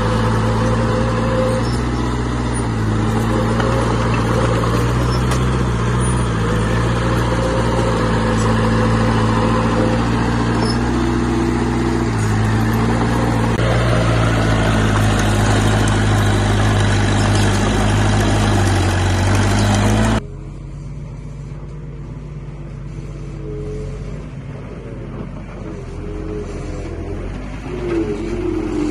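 Heavy diesel construction machinery engine running steadily and loudly. About two-thirds of the way through it cuts off suddenly to a quieter engine sound, which rises briefly near the end.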